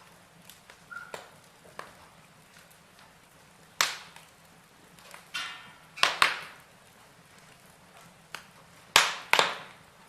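Wood logs burning in a fireplace, crackling with irregular sharp pops, the loudest about four, six and nine seconds in, some in quick pairs. A short hiss of escaping steam or sap comes about five seconds in.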